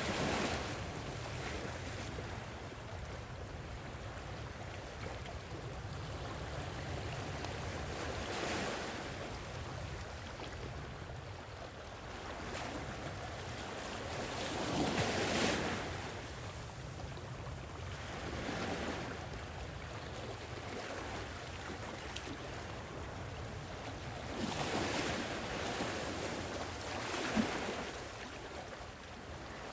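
Sea waves washing onto a shore, swelling in surges every few seconds over a steady low rumble, with one brief sharp tap near the end.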